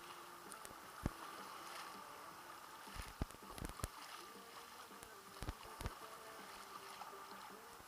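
Kayak paddle strokes dipping into seawater: faint, irregular splashes, some in quick pairs, over a soft steady wash of water.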